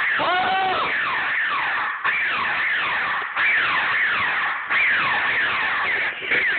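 Laser tag blasters firing: a stream of electronic zaps, each a quick falling tone, repeating and overlapping several times a second, with a brief warbling tone near the start.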